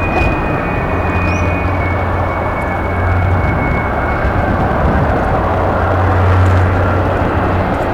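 Jet airliner passing close by: a loud, steady engine noise with a high whine that falls slightly in pitch over the first few seconds.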